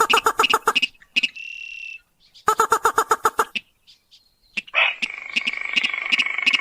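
Crake and rail calls played from a lure recording: two fast runs of short repeated notes, about ten a second, with a short steady high note between them. From about five seconds in comes a longer, continuous rapid churring call.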